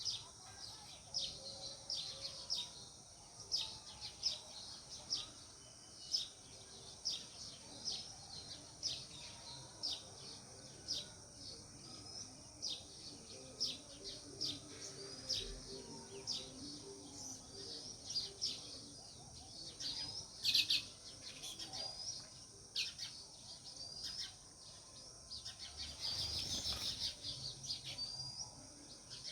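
House sparrows chirping, many short sharp chirps in quick, irregular succession, over a steady high hiss, with a brief burst of noise near the end.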